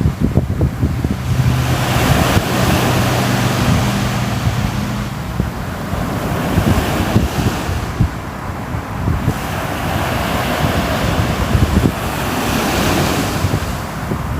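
Ocean surf: waves washing in and drawing back in slow swells, two of them building in this stretch, with wind buffeting the microphone. A faint low hum sits under it in the first few seconds.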